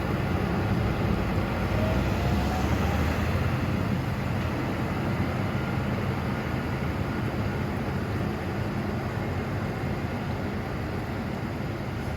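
Heavy truck's diesel engine running steadily at low revs, a deep continuous hum that eases off slightly towards the end.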